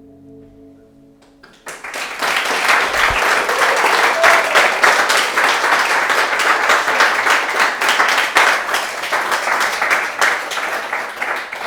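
A song's last chord ringing out on a plucked instrument, then, about a second and a half in, an audience applauding for about ten seconds before the clapping tails off.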